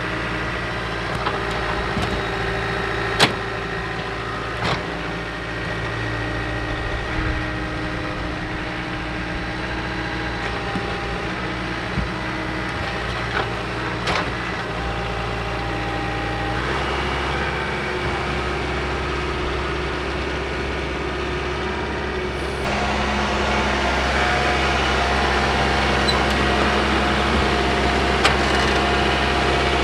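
Diesel engine of a John Deere 4052R compact tractor running steadily under work, with a few sharp knocks. Its note shifts about halfway through, then rises and gets louder near the three-quarter mark as the revs go up.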